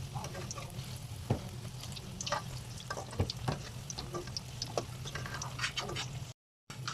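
Kitchen handling sounds: scattered light clicks and short scrapes of utensils and cookware over a steady low hum.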